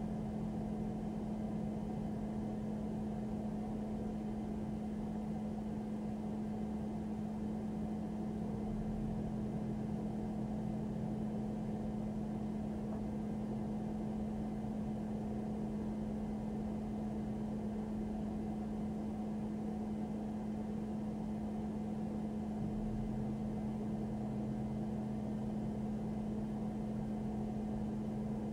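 Steady drone inside a parked, idling police patrol car: a constant low hum over the engine's even rumble.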